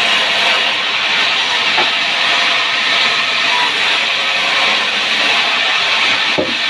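Power wood saw running and cutting through timber, a loud, steady hissing mechanical noise.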